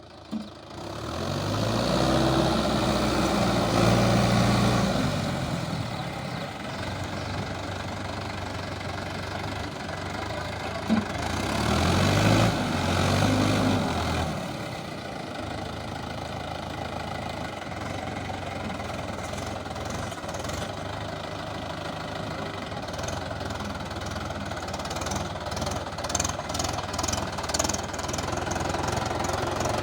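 Mahindra tractor's diesel engine running. Its revs rise twice, about two seconds in and again about twelve seconds in, between spells of steadier running, with some rattling near the end.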